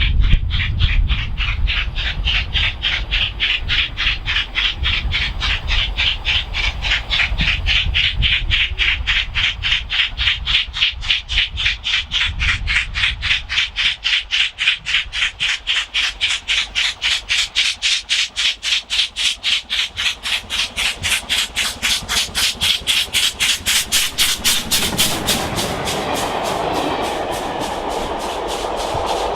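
LMS Black 5 two-cylinder 4-6-0 steam locomotive working an approach, its exhaust beating in an even rhythm of about three chuffs a second that grows steadily louder. About 25 seconds in, the engine passes by: the rush of its wheels on the rail takes over and the beats fade.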